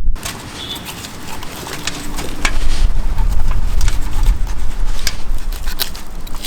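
Wind buffeting the microphone in a heavy rumble, with scattered light clicks and knocks.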